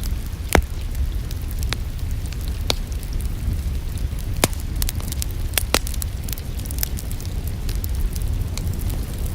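Wood fire crackling in a fireplace, with irregular sharp pops (the loudest about half a second in and near four and a half seconds) over a steady low rumble of the flames.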